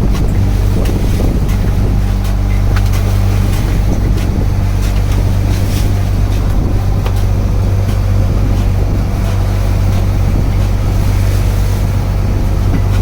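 Wooden fishing boat's engine running with a steady low drone.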